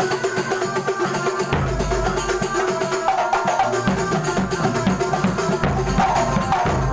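Kuntulan music in rehearsal: fast, dense drumming with pitched instruments over it, and a deeper drum joining about a second and a half in.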